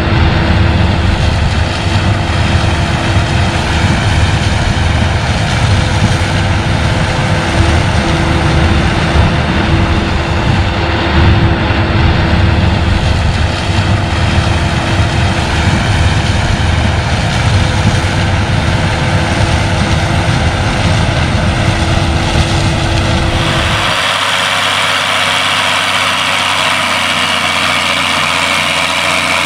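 Heavy farm machinery running: a loud, deep engine rumble with a steady hum. Near the end the sound changes abruptly, the deep rumble dropping away and a higher hiss taking over.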